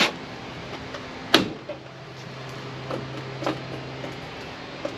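Sharp clicks and knocks of an electrical plug being handled and pushed into its socket, one at the start and a louder one about a second in, then a few lighter ticks. A faint steady low hum runs for a few seconds after the second click.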